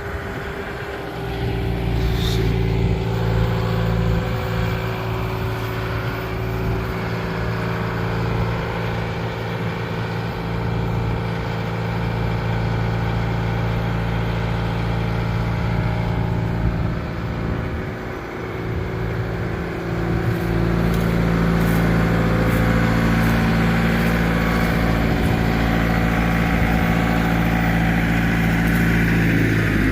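An engine running steadily, louder from about a second in, briefly fading around the middle and then steady again and a little louder for the last ten seconds.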